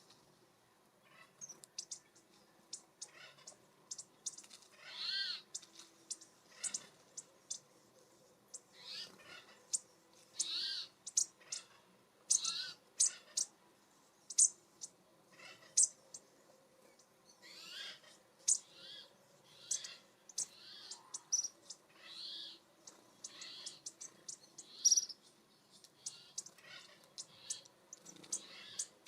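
Small birds calling repeatedly in short, scattered notes, some of them harsh and rasping, mixed with sharp ticks.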